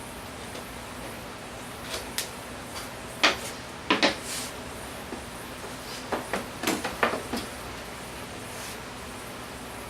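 A series of irregular knocks and clatters, like things being handled and set down in a workshop. The loudest come about three and four seconds in, and a quick cluster follows around seven seconds. A steady background hiss runs underneath.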